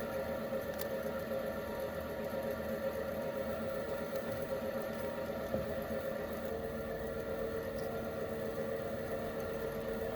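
A small electric motor running steadily with a whirring hum. Its pitch drops slightly about six and a half seconds in.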